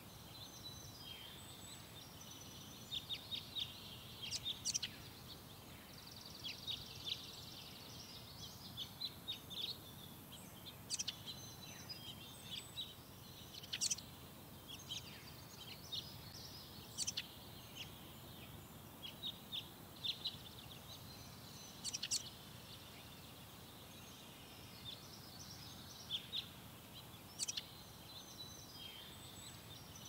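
Small birds chirping in short, high, scattered calls, several in quick clusters, over a faint, steady low background rumble.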